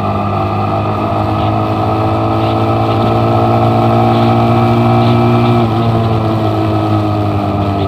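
Motorcycle engine running under way, its pitch slowly rising as it pulls, then dropping suddenly near the end of the acceleration, as at a gear change or easing off the throttle, and settling lower.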